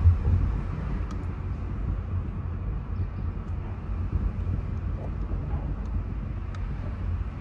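Steady low rumble of a car, with a brief thump right at the start.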